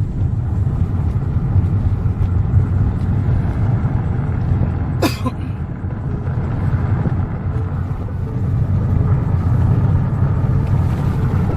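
Car driving: a steady low rumble, with a single sharp click about five seconds in.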